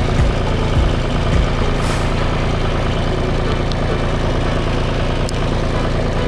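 Farm tractor engine running steadily, heard up close from the driver's seat, with a few light knocks in the first two seconds.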